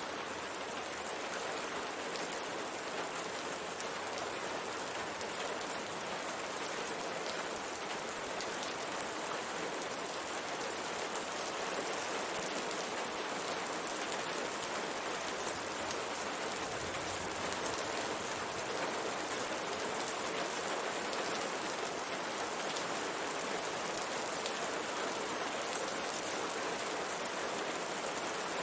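Steady rain falling on a window, an even hiss with scattered drops ticking.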